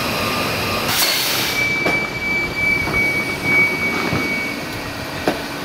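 Station platform noise beside a standing passenger train: a steady background din, a short hiss about a second in, then a steady high whine for about three seconds, with a few knocks.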